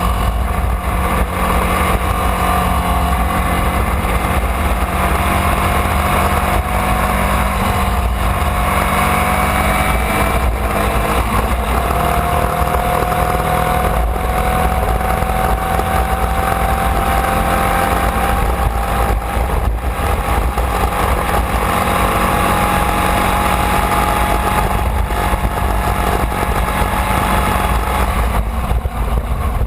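Formula Vee's air-cooled Volkswagen flat-four engine running hard, heard from on board the car, its pitch climbing slowly and steadily over most of the stretch.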